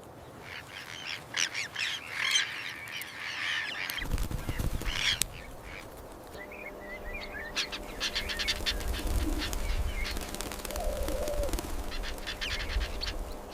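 Birds calling in quick, overlapping chattering bursts. A low rumble comes in about four seconds in, and a faint steady hum from about six seconds.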